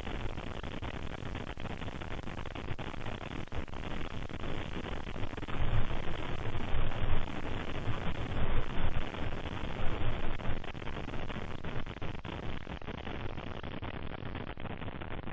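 Steady static-like hiss with scattered faint clicks, swelling louder with a low rumble between about six and ten seconds in.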